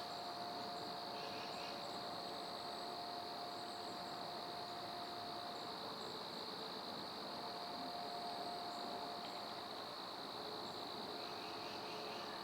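Steady, unbroken chorus of crickets, faint. A thin steady hum runs underneath.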